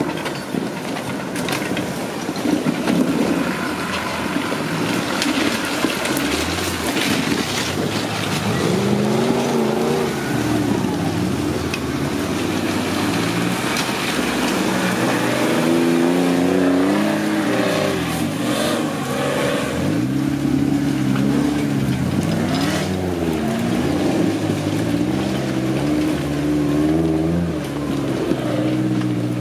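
Engines of modified off-road 4x4s revving up and dropping back again and again as they crawl up a steep rocky slope under load.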